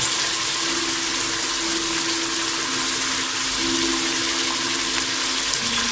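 Onion and garlic sizzling in hot oil in a stainless steel pot: a steady hiss.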